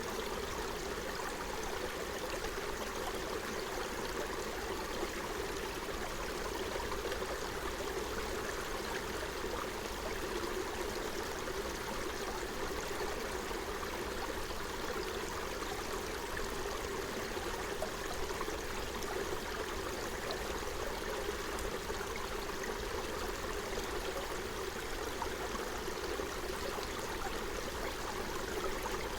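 Forest stream running, a steady babble of flowing water that does not change.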